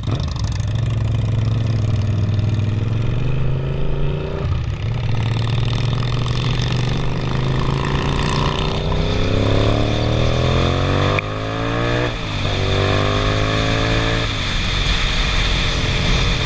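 Suzuki SV650 V-twin motorcycle accelerating. Its engine note climbs and drops back at each of several upshifts, with wind rush over the helmet.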